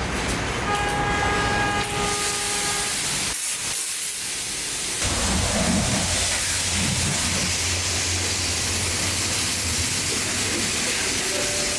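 Coin-operated car-wash pressure washer spraying water, a steady loud hiss with a low hum beneath it. It builds to full spray about five seconds in, after a few steady tones near the start.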